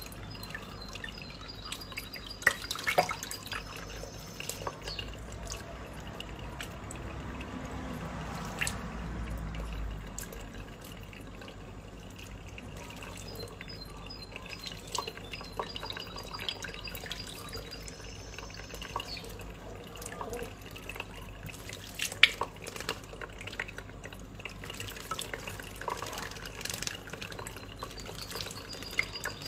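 Water dripping and trickling as a tiny bird bathes in cupped hands, with scattered sharp splashes, the loudest twice, near the start and about three quarters through.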